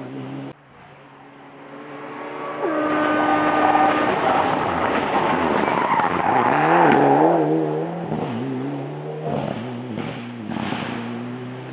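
Rally car at competition speed: after an abrupt cut about half a second in, its engine is heard approaching and rising in pitch. It passes loudest a little past the middle, with the engine revving up and down amid tyre noise, then pulls away.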